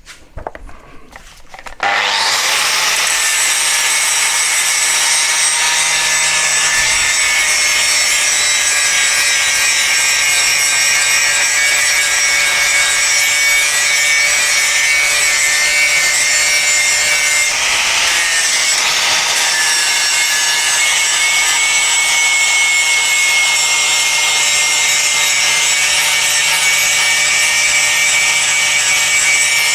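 Power grinder grinding a fresh cutting edge onto the second side of a blunt steel mower blade. Starts about two seconds in and runs steadily with a high whine, wavering briefly partway through.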